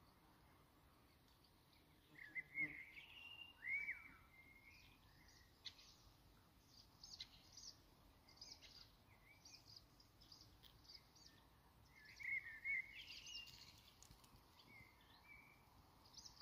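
Songbird singing outdoors: two short phrases of warbling, curving notes about ten seconds apart, with short high chirps in between, over a faint steady background hiss.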